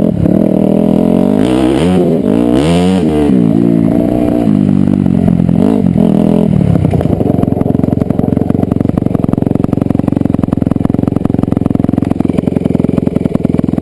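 Dirt bike engine revving up and down repeatedly as it is ridden, then settling into a steady, even note about halfway through.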